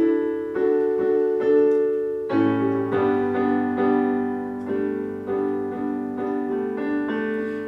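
Solo piano playing steady repeated chords, a stroke roughly every half second to second, with a new, deeper chord coming in a little over two seconds in.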